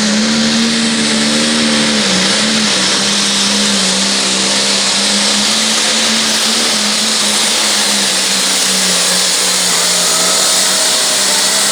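Turbocharged diesel pulling tractor engine running flat out under load down the track, with a turbo whistling over the engine note. The pitch holds steady, dipping slightly about two seconds in.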